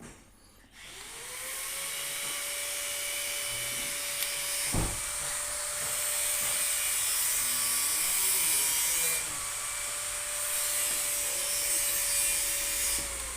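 A machine running with a steady whine that spins up about a second in, holds one pitch over a loud hiss, and winds down near the end.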